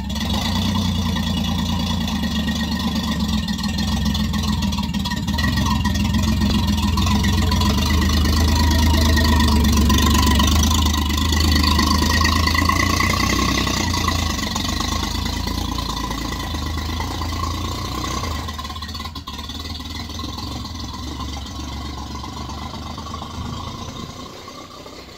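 1935 Rolls-Royce 20/25's straight-six engine, in original condition, running as the car drives slowly past and away, growing louder to a peak about ten seconds in, then fading toward the end.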